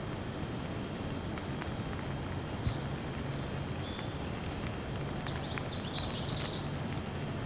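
Steady rain falling, with scattered drip ticks, and a bird chirping in a quick series of short high calls in the second half.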